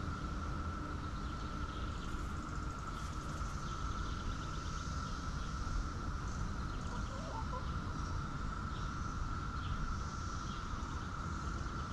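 Rural outdoor ambience: a steady high insect drone with scattered short bird chirps over a constant low rumble, and a soft brief call about seven seconds in.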